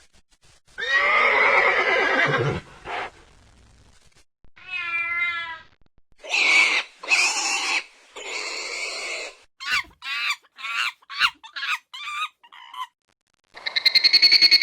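A series of different animal calls, one clip after another: a long wavering call, a short warbling call, three louder calls, then a quick run of about eight short rising calls. Near the end a buzzing, rapidly pulsing trill begins.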